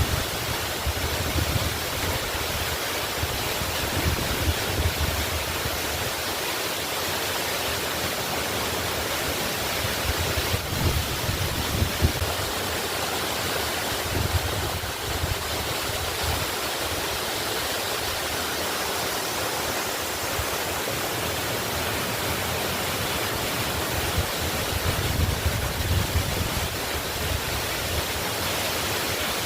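Waterfall rushing: a steady, even roar of falling water, with brief low rumbles swelling up now and then.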